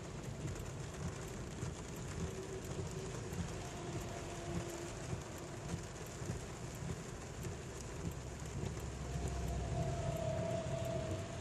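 Heavy rain falling on a car's roof and windshield, heard from inside the cabin, as a steady hiss of many small drop impacts over a low rumble.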